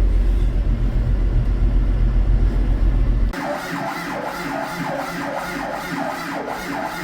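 Engine of a self-propelled swather running with a steady low rumble. About three seconds in it cuts off abruptly, giving way to a quieter sound with a repeating falling chirp, about three a second.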